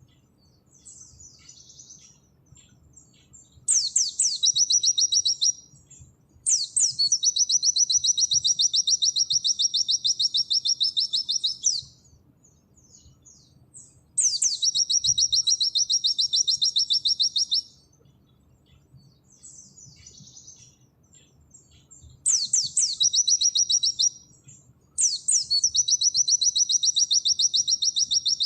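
Pleci (white-eye) singing long, very fast trills, the 'nembak' song, in five phrases, each opening with a quick sweep, the longest about five seconds; soft twitters fill the pauses between.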